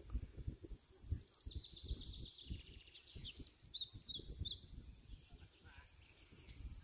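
Small birds chirping: a fast high trill from about a second in, then a run of louder chirps that stops about halfway through, over irregular low thumps and rumble.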